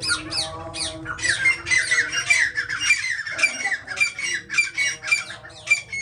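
Caged birds squawking: a dense run of shrill calls, about four a second, each sliding down in pitch, thickest from about a second in.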